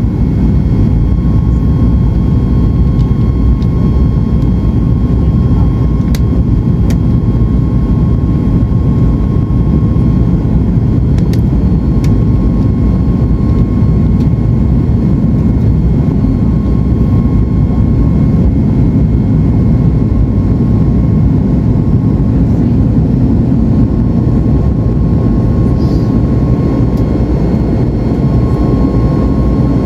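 Steady cabin noise of a Boeing 737 MAX 8-200 airliner: a loud, even rumble of jet engines and airflow with a thin steady whine over it.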